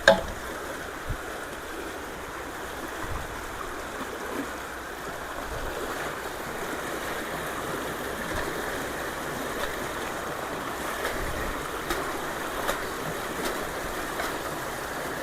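Fast-flowing creek water rushing steadily. A sharp knock sounds right at the start, and a few faint ticks follow.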